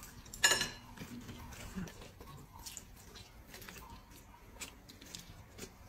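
A person biting into and chewing a large chicken leg: a short, louder noise about half a second in, then soft, irregular clicks and smacks of chewing.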